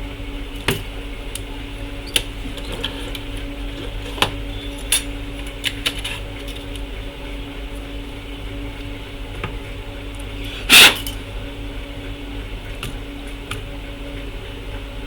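Scattered light clicks and taps of small tools being handled on a repair bench, over a steady electrical hum. One click about eleven seconds in is the loudest.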